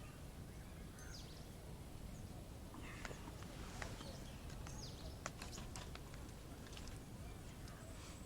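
Campfire crackling with scattered sharp pops, heaviest in the middle, over a low steady rumble. A few short, high bird calls slide downward, one about a second in and one around the middle.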